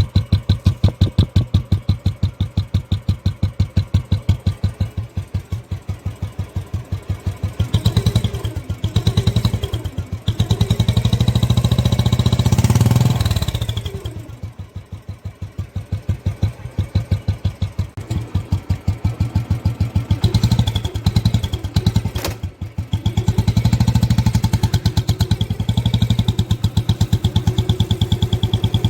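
Royal Enfield Classic 350 single-cylinder engine running with its even, thumping exhaust beat, revved up several times. A thin high whistle from an aftermarket turbo-sound whistle fitted in the exhaust comes up mostly when it is revved.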